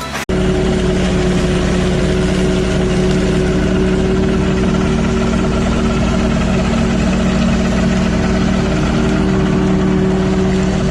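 An engine running steadily at an even speed, with a constant low hum, starting abruptly a fraction of a second in.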